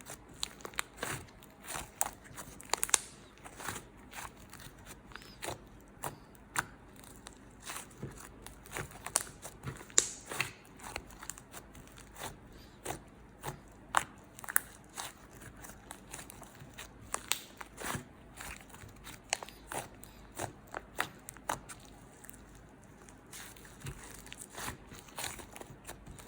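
Slime being squeezed and pressed by hand, giving a steady run of irregular crackling clicks and small pops.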